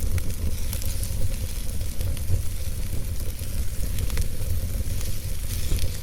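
Log fire burning in a fireplace: steady crackling with scattered small pops over a low rumble and a soft hiss.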